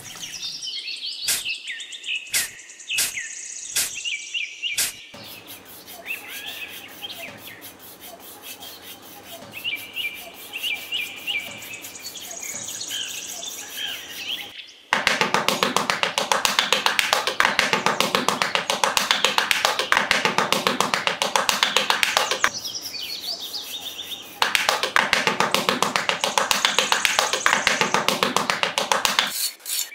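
A small hand trowel rasps quickly and steadily over damp sand, starting about halfway through and pausing briefly for a couple of seconds near the three-quarter mark. Birds chirp in the background, and there are a few sharp taps in the first seconds.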